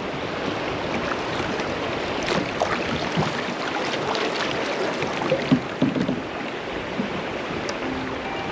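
Rushing creek water around a kayak: a steady rush with scattered small splashes and gurgles.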